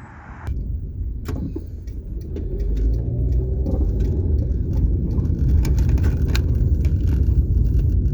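Car driving, heard from inside: low road and engine rumble that grows louder as the car picks up speed, with irregular small clicks and rattles over it.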